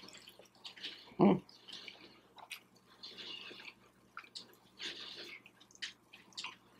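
Close-miked chewing of a deep-fried egg roll: soft crunches and wet mouth clicks coming in short spells, with one brief, louder low sound about a second in.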